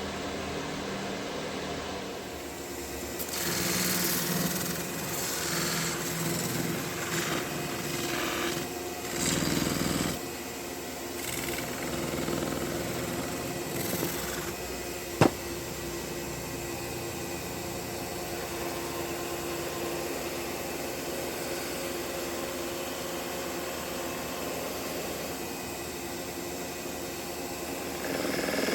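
A chisel being sharpened: irregular scraping strokes of the steel blade on a sharpening stone over the first half, then a single sharp click about fifteen seconds in, followed by a steady low hum.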